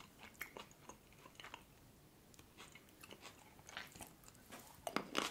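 Faint close-up chewing with small wet mouth clicks, then a louder cluster of crisp clicks near the end as a cherry tomato is bitten into.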